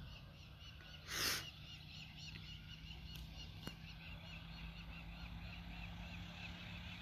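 Birds chirping faintly in a steady run of short rising-and-falling high calls, about four a second, over a faint steady low hum. A brief rush of noise about a second in is the loudest thing.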